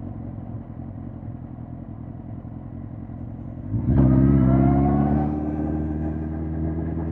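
2005 Suzuki GSX-R1000 K5's inline-four engine running low and quiet. About four seconds in, the throttle opens and the engine note jumps up in loudness and pitch, then holds steady as the bike pulls away.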